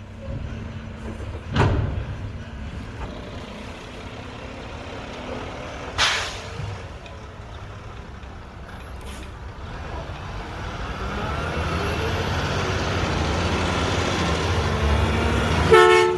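Mack McNeilus front-loader garbage truck running with a low diesel rumble, with a sharp bang about a second and a half in and a short air-brake hiss about six seconds in. The engine grows louder from about ten seconds on as the truck comes closer, and a brief pitched toot sounds just before the end.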